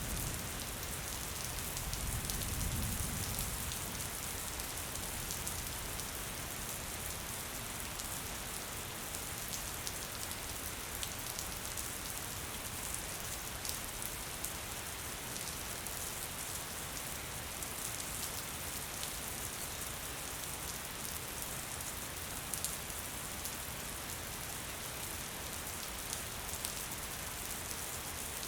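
Steady gentle rain, a dense even hiss of falling rain with scattered individual drops ticking. A brief low rumble swells and fades about two to three seconds in.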